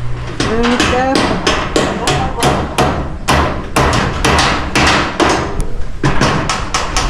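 Steady hammering, about three blows a second, with a brief voice near the start.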